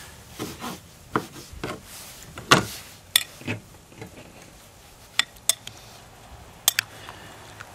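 A utensil knocking and clinking against a bowl while salsa is stirred and tomato pieces are pressed apart: irregular sharp taps with some soft scraping, the loudest knock about two and a half seconds in.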